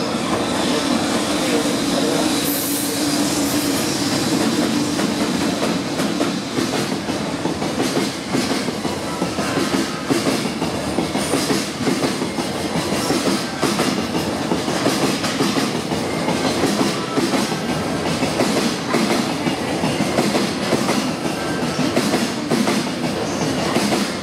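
JR Freight EH500 electric locomotive passing, then a long string of Koki container wagons rolling by, the wheels clattering over the rail joints in a steady run of clicks.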